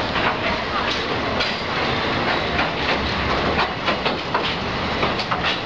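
Passenger train rolling over a steel truss bridge, heard from an open carriage window: a steady rumbling clatter of wheels on rails, with frequent irregular sharp clicks and knocks.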